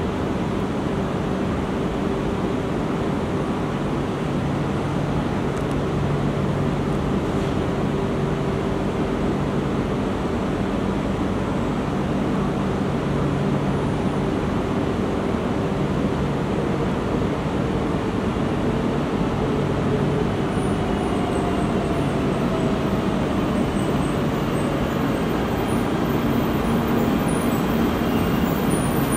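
E2 series Shinkansen pulling into a station platform: a steady rumble of running noise that grows slowly louder as the train comes in. Faint high whines join in over the last third as it slows.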